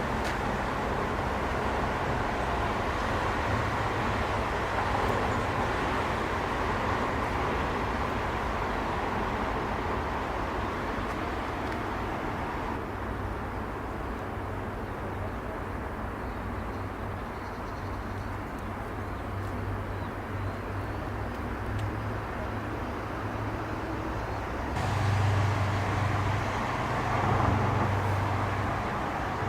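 Steady rush of jet airliner engines at an airport, over a low rumble, with no speech. The sound shifts abruptly about 13 s in, losing its upper hiss, and again about 25 s in, when the rumble grows louder.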